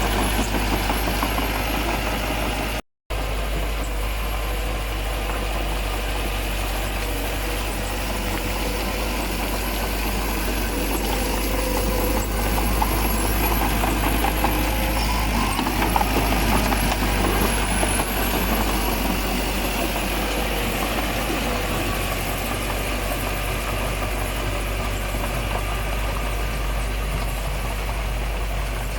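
Diesel engine of heavy earthmoving machinery running steadily at low revs, with the sound cutting out for a split second about three seconds in.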